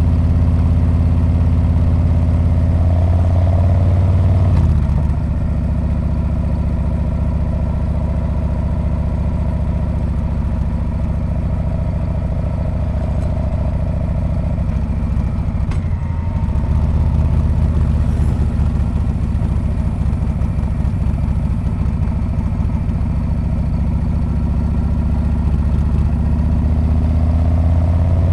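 Harley-Davidson Street Bob's V-twin engine running through its muffler with a low exhaust note. It eases off about five seconds in, dips briefly around sixteen seconds, then picks up and grows louder toward the end.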